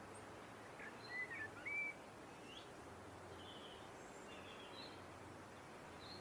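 Blackbird singing faintly over a steady background hiss: a short whistled phrase about a second in, followed by softer high chirps.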